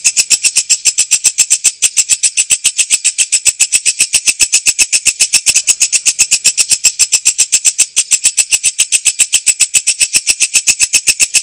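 Walang kecek katydid singing: a fast, even train of sharp, high-pitched chirping clicks, about eight a second, keeping a steady rhythm.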